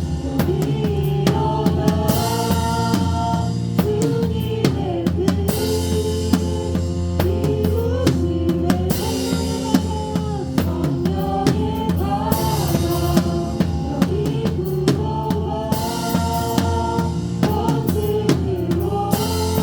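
Drum kit played live in a worship band: a steady beat of kick and snare with cymbal washes returning every few seconds, over sustained chords and a gliding melodic line from the rest of the band.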